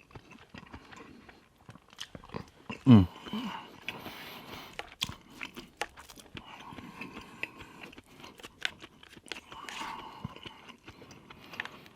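Close-miked chewing of garlic butter shrimp: wet mouth noises and sharp clicks of biting and smacking, with a short vocal sound about three seconds in.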